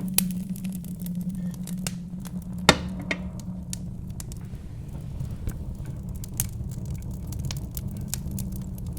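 Wood fire crackling in a fireplace, with irregular sharp pops, the loudest a little under three seconds in, over a steady low rumble of wind.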